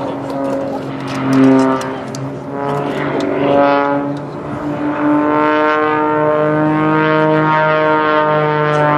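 Propeller aircraft engines droning, several steady pitches that shift slowly and grow louder and steadier about five seconds in.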